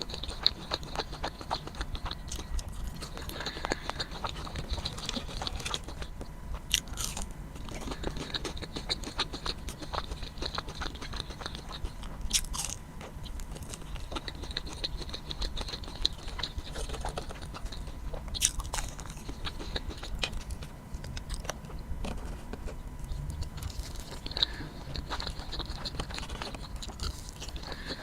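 Close-miked eating of crunchy fried food: a loud crunching bite about every six seconds, with steady crackly chewing in between.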